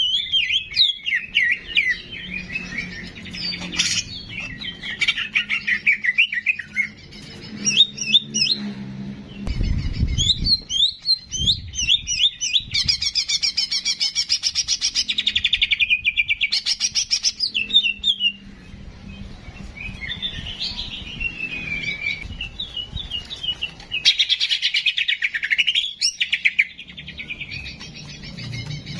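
Songbird singing a long, varied song of rapid chirps and whistled notes, with a dense fast trill a little before the middle.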